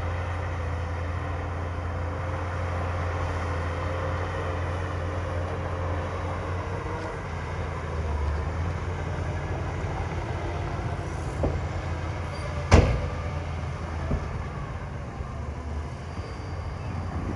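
Heavy diesel construction machinery running steadily at a low, even engine note, with one sharp loud bang about thirteen seconds in and a few lighter knocks near the end.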